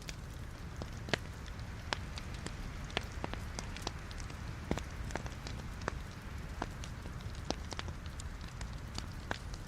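Wood fire of burning logs in a fireplace: a steady low rumble and hiss with irregular sharp crackles and pops, a few louder snaps scattered through.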